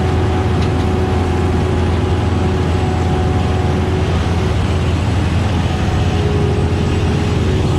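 Heavy diesel farm machinery running steadily, a constant low drone with a steady whine over it, typical of a self-propelled beet harvester at work.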